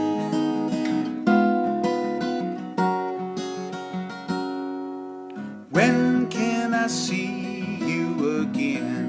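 Strummed chords on a 1967 Martin D-18 mahogany dreadnought acoustic guitar. One chord is left to ring and fade a little past the middle, then the strumming picks up again with a sharp attack.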